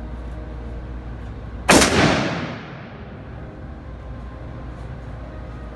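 A single rifle shot a little under two seconds in, echoing briefly off the walls of an indoor shooting range. A steady low hum runs underneath.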